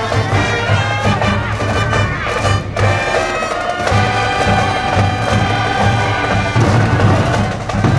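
School brass band playing a baseball cheering tune, trumpets and other brass holding bright notes over a steady bass-drum beat.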